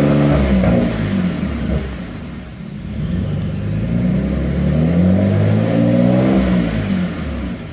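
Dodge Stealth's V6 engine being revved: the engine speed falls back over the first two seconds, rises again about three and a half seconds in, and drops back near the end.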